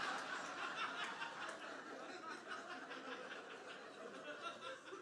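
Audience laughing after a punchline, the laughter dying away gradually.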